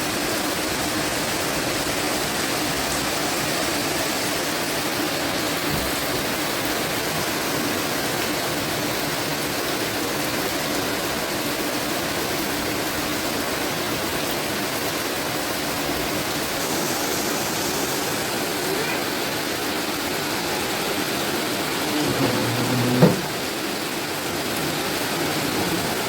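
Rain falling steadily, an even hiss. Near the end a short knock stands out briefly.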